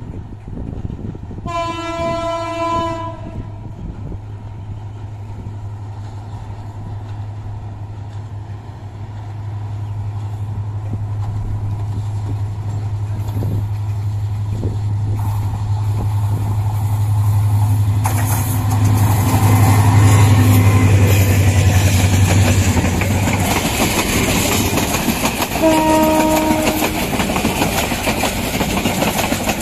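Bangladesh Railway diesel locomotive hauling a passenger train: a horn blast about two seconds in, then a steady low engine drone that grows louder as the train approaches. The locomotive passes with rumbling wheels and clickety-clack from the coaches, and gives a second, shorter horn blast near the end.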